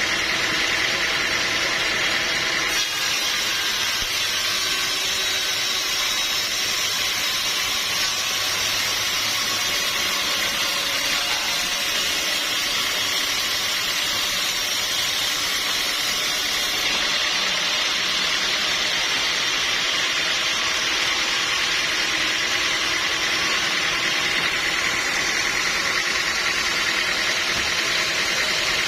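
Sawmill running steadily while sawing a teak log: a continuous, even hissing saw noise over a low machine hum.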